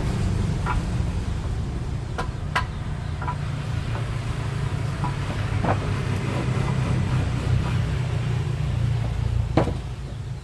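A steady low motor rumble with a few light knocks and taps scattered over it; the rumble drops away near the end, just after a sharper knock.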